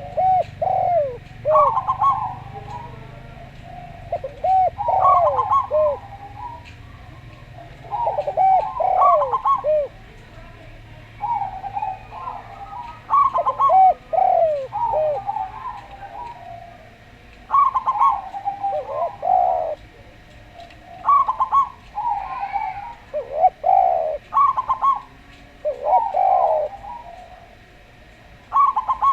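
Zebra dove (perkutut) and Javan turtle dove (derkuku) cooing, in repeated phrases of soft arched coos every few seconds.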